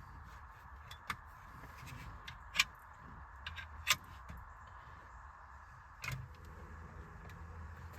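Handling of steering wheel switch wiring connectors: four sharp plastic clicks, the loudest two in the middle, with light rustling over a low steady hum.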